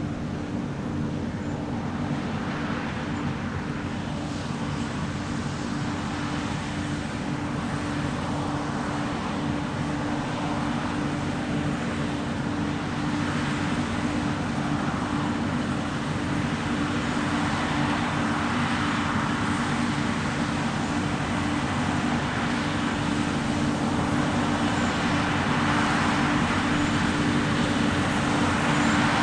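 Heavy diesel harvest machinery running steadily, with a constant engine drone that grows gradually louder.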